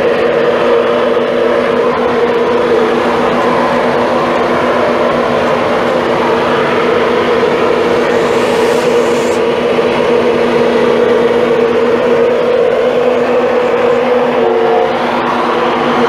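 Class 43 HST power car's diesel engine running loud and steady at close range, a droning hum of several held notes, with a slight shift in pitch near the end.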